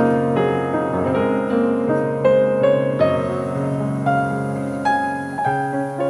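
Background piano music: gentle notes and chords at an even pace.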